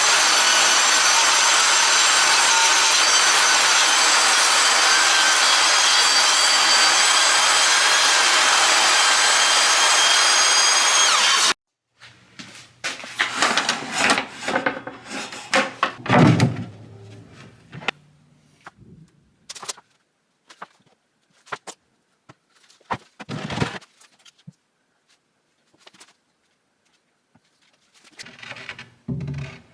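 A woodworking power tool's motor runs at a steady, high whine and cuts off suddenly, followed by scattered wooden knocks and thumps as boards are handled and set down.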